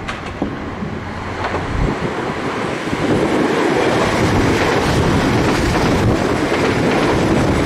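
A train running past, its noise swelling about three seconds in and then holding steady.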